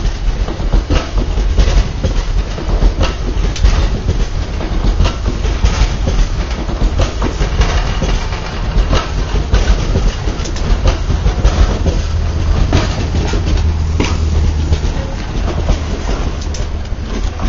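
Talgo night-train coaches rolling past at low speed. The wheels clatter over rail joints and points in a run of uneven sharp clicks over a heavy, steady rumble.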